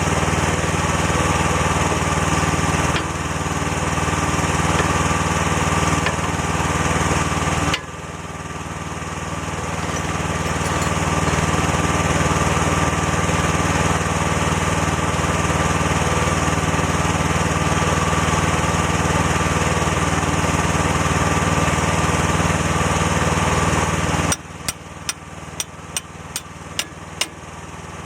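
Mini excavator's small engine running steadily at working speed, its level jumping abruptly a couple of times. Near the end the engine sound drops away and a series of sharp clicks or knocks follows, about two a second.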